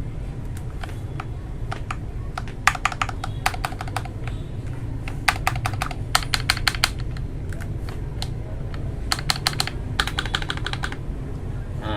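Mechanical keyboard fitted with lubed Akko Matcha Green switches being typed on, in quick bursts of keystrokes with short pauses between them.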